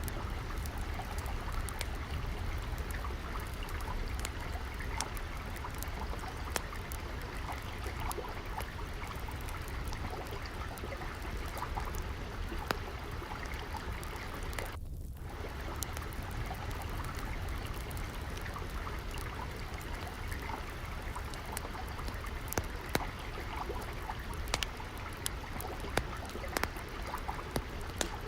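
Steady trickle of flowing water mixed with a crackling wood fire, whose sharp pops and snaps come more often in the last few seconds.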